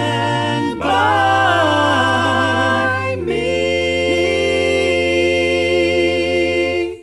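An a cappella vocal group holding the closing chords of a song in close harmony over a deep sung bass. The chord changes twice, with one voice moving on top, and the singing stops right at the end.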